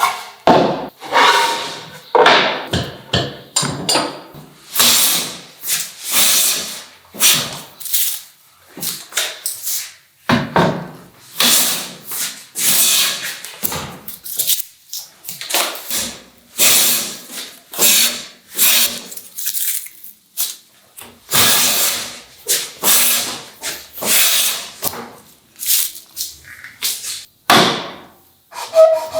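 Hand tools working wood: a long run of short scraping strokes, irregular, about one or two a second.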